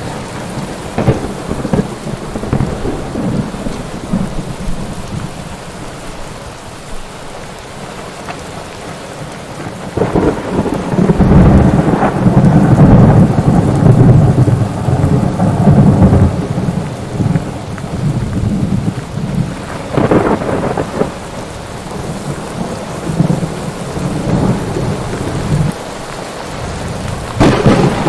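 Thunderstorm: steady rain hissing, with a long, deep roll of thunder that swells about ten seconds in and rumbles for several seconds before fading, and shorter cracks of thunder near the end.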